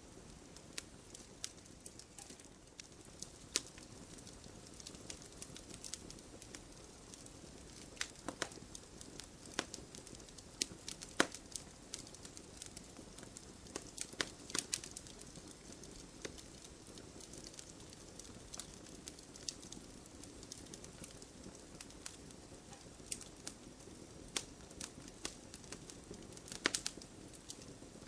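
Wood fire crackling in a fireplace: irregular sharp pops and snaps over a soft steady hiss of burning, with small clusters of pops now and then.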